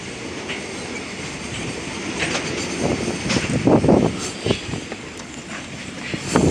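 Freight train rolling past, a steady rumble with irregular wheel clacks over the rail joints.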